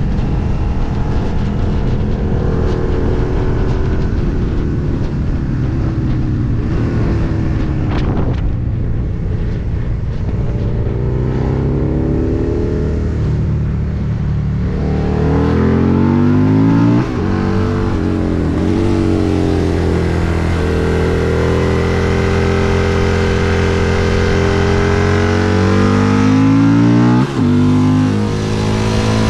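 Husqvarna Nuda 900's parallel-twin engine heard from onboard while riding, with wind rush on the microphone in the first half. About halfway through the engine pulls up through the revs, and the sound breaks off briefly twice at gear changes.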